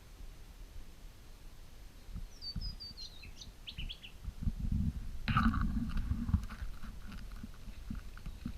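A bird chirping, a quick series of short high notes about two to four seconds in. From about five seconds there is rustling and knocking from handling.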